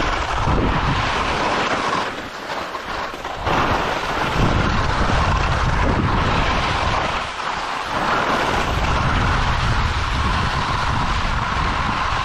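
Strong wind buffeting the microphone in gusts, with a steady rushing hiss over a low rumble; it eases briefly about two seconds in and again near eight seconds.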